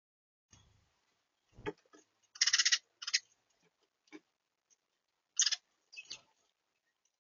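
Small birds feeding at a birdhouse feeder, picked up close: a scatter of pecks, taps and short scrabbling or rustling bursts, with a dull knock early on and the loudest bursts about two and a half seconds in and again near five and a half seconds.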